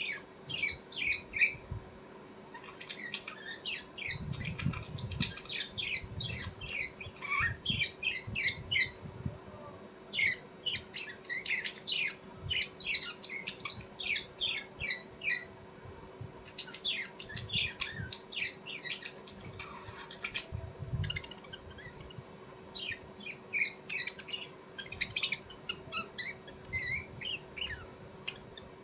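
Birds chirping and squawking in quick runs of short, sharp calls, several bouts with brief pauses between them.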